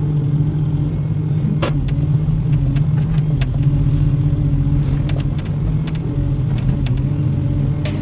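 Excavator's diesel engine running steadily with a low hum, with a couple of brief sharp clicks or knocks about a second and a half in.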